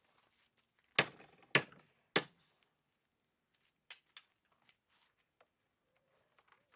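Hammer blows during a stable door repair: three hard strikes about half a second apart, each with a short ring, then two lighter taps about two seconds later.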